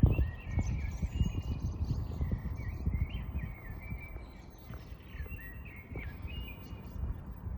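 Small songbirds chirping and warbling in quick, varied phrases, over a steady low rumble.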